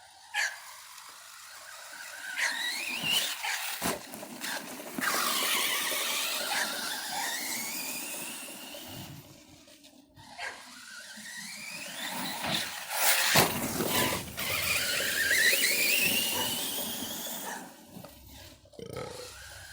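Electric motor of an ARRMA Outcast RC stunt truck whining up in pitch as the truck accelerates, in two long runs, with a few sharp knocks from the truck hitting the ground.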